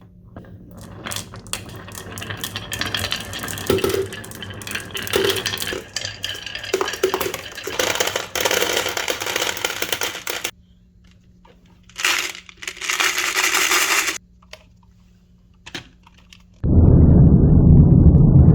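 Marbles rolling and clattering along rain-gutter and wooden-rail track, with many small clicks of marbles knocking together. The rolling stops briefly about two thirds of the way through, then comes back. A loud low rumble sets in near the end.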